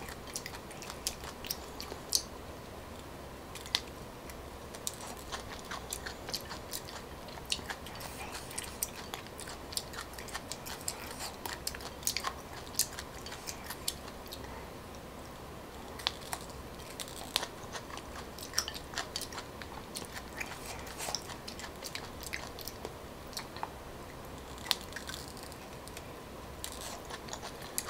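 Chewing and biting of raw, live coconut palm weevil grubs, with many short, irregular clicks throughout.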